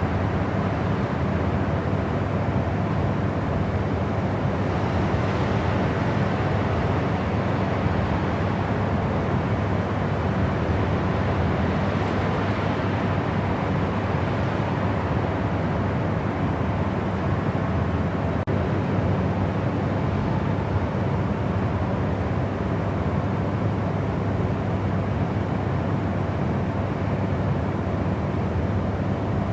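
Steady, unchanging white-noise sleep sound: an even, deep rushing hiss that does not rise, fall or break.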